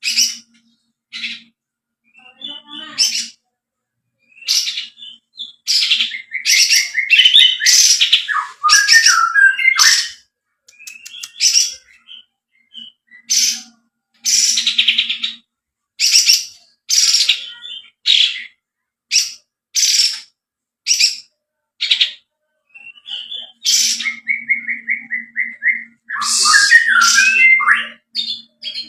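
Kapas tembak songbird singing: a fast run of short, sharp, high calls, broken twice by a quick rattling trill.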